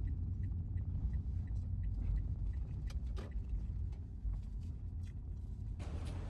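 Low steady rumble, like a vehicle on the move, with faint even ticks about three times a second during the first two seconds.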